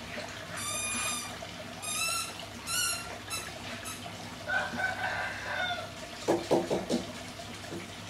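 Birds calling: several short pitched calls in the first three seconds, a longer wavering call around the middle, then a quick run of low, sharp notes near the end.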